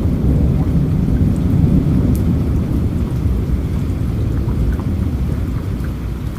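Steady rain with a deep, continuous low rumble underneath and a few scattered drops ticking.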